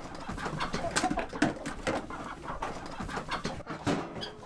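Farmyard poultry calling and clucking, amid many short clicks and rustles.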